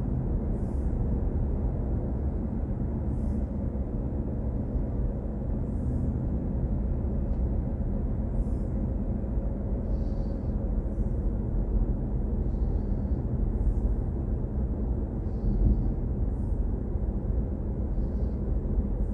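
Steady low road and tyre rumble inside the cabin of a BMW i4 M50 electric car while driving, with no engine note.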